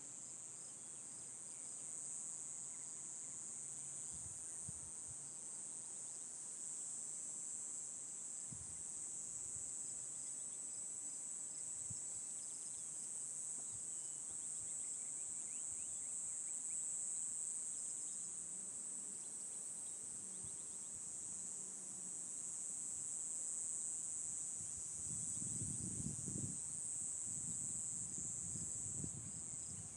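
Steady, high-pitched chorus of insects such as crickets, trilling without a break, with a low rumble rising briefly near the end.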